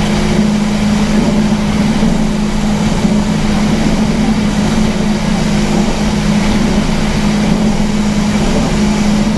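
Speedboat engine running steadily at speed, a constant low drone with a rushing noise over it.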